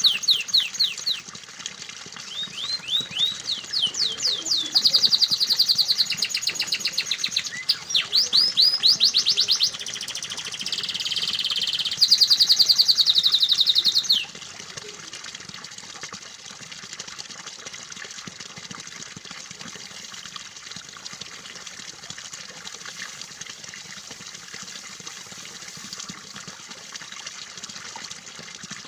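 Canary singing in fast trills, each a rapid run of short, repeated sweeping notes, stopping abruptly about halfway through. Then a steady trickle of running water.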